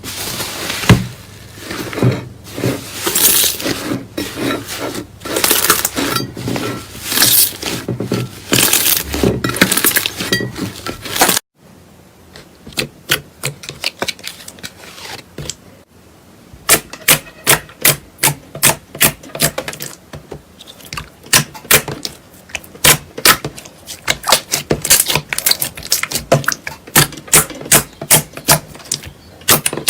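Slime being worked by hand, making crackling, clicking pops. About eleven seconds of dense, busy crackling are followed, after an abrupt cut, by a run of sharp separate clicks, two to four a second.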